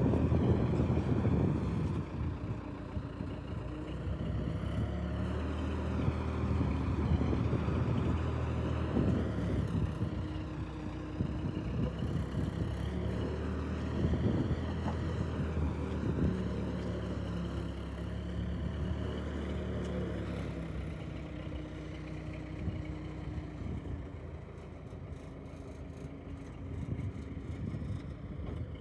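Tractor engine running steadily, with its pitch and level shifting a little now and then.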